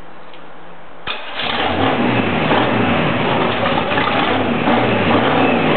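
Chevrolet 327 small-block V8 marine engine starting about a second in and running on its two-barrel carburetor, its speed rising and falling as the throttle is worked up and down.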